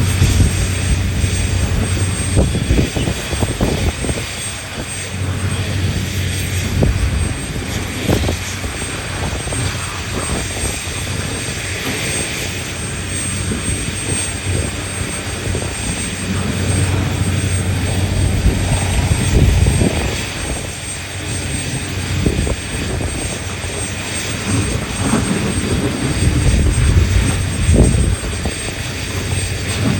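Large diesel engines of a mining excavator and haul trucks running under load, a steady deep drone with a low hum that swells and eases, with several brief low thumps along the way.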